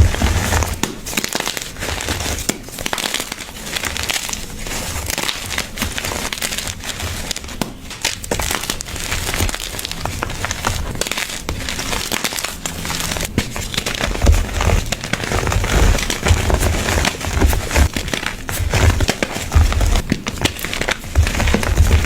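Blocks of gym chalk being crushed and crumbled by hand, close to the microphone: a dense, continuous run of crunching crackles, with deep thuds now and then in the second half.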